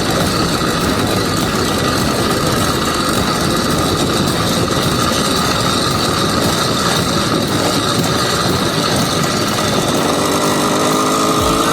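80cc two-stroke bicycle engine running steadily, with a dense noise over it; near the end its pitch rises as it revs up.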